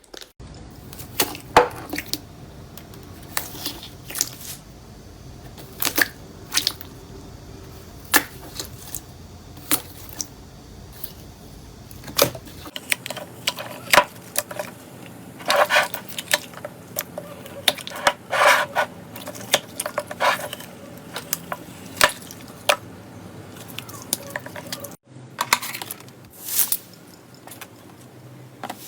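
Slime being squished and poked by hand close to the microphone, making many sharp clicks and crackly pops. The sound changes character twice, about 13 and 25 seconds in.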